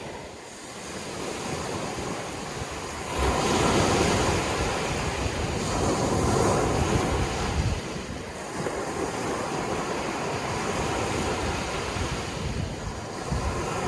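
Sea waves washing on the shore: a steady rush of surf that swells louder about three seconds in and eases back some five seconds later.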